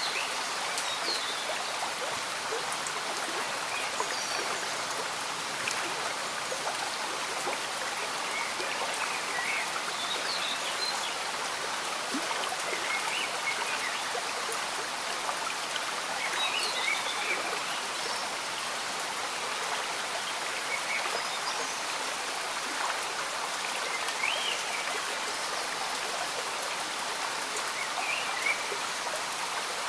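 Slow-moving stream bubbling and gurgling steadily, with rain falling over it.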